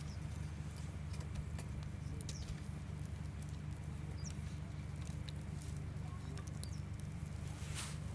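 Campfire wood crackling: scattered sharp snaps and pops, with one longer hissing pop near the end, over a steady low rumble.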